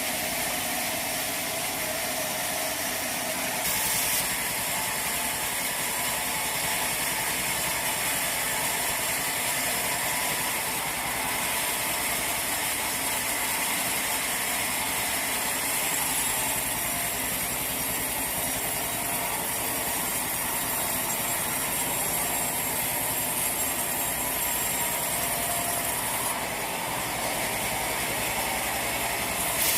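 Bandsaw sawmill machinery running steadily, with a hiss high up that comes and goes a few times.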